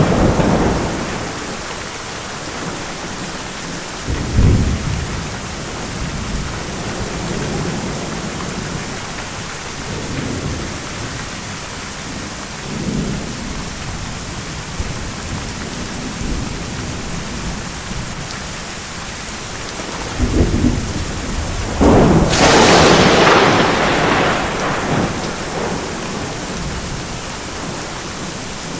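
Steady heavy rain of a thunderstorm, with low rolls of thunder about four seconds in and a few times after, and a loud close thunderclap about 22 seconds in that rumbles on for a few seconds.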